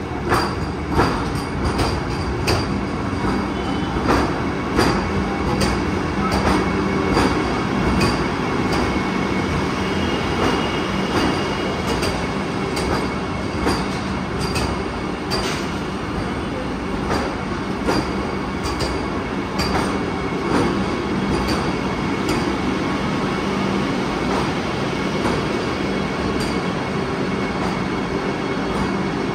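Vande Bharat Express electric train rolling into a platform, its coaches passing with a steady rumble and hum and the wheels clicking over rail joints. The clicks come less often in the last third.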